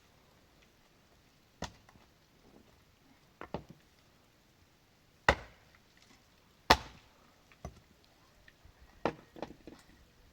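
Wood being chopped: sharp strikes at irregular intervals, about eight in all, the two loudest in the middle.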